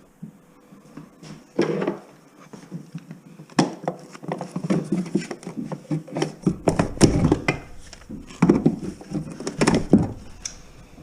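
Irregular knocks, clatter and scraping from hand demolition work: electrical wire being cut and pulled out of bare wall framing, with a louder run of blows about two thirds of the way in.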